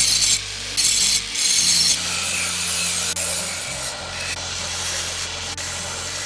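Hand abrading strokes, back and forth, about two a second for the first two seconds, then a steadier rasping rub. Soft background music underneath.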